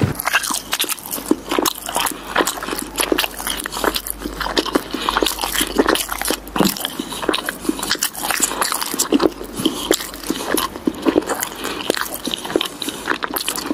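Dense, irregular crunching and gritty scraping, many small clicks close together, as of gravel or concrete mix being pushed and worked.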